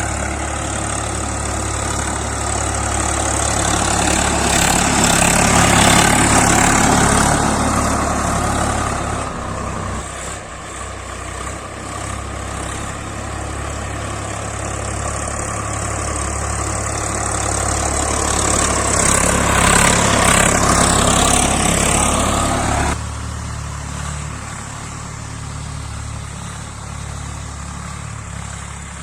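Swaraj 855 FE tractor's three-cylinder diesel engine running steadily while pulling a cultivator. It grows louder twice, most of all around 5–7 s and 19–22 s, and the sound drops off abruptly about 23 seconds in.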